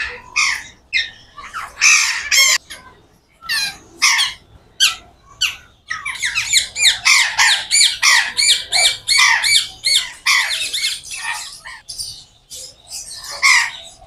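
Aviary birds squawking: many short, harsh calls in quick succession. The calls come thickest from about six seconds in to about twelve seconds in.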